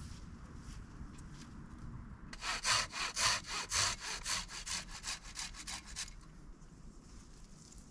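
Hand saw cutting wood: a run of quick back-and-forth strokes, several a second, starting about two seconds in and stopping about two seconds before the end.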